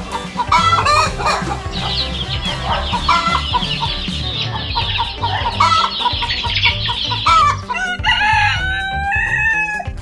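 Hens clucking with chicks peeping in a dense high chatter through the middle, then a rooster crowing near the end, over background music with a steady low beat.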